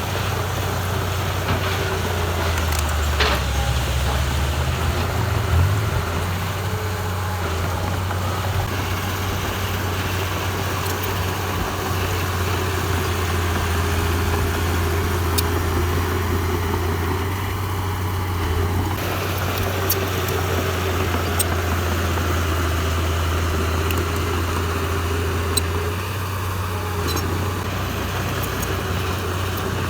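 Diesel engine of heavy earthmoving machinery running steadily, with a brief change in engine note a few seconds in and a few sharp ticks scattered throughout.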